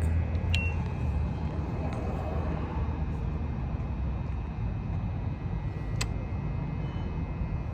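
A short electronic beep from a gas pump's keypad just after the start, over a steady low outdoor rumble, with a single sharp click about six seconds in.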